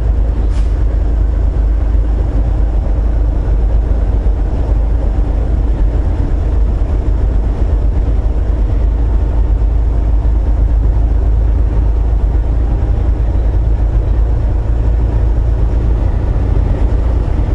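Volvo VNL860 semi truck heard from inside the cab while driving: a steady, deep engine and road drone that does not change.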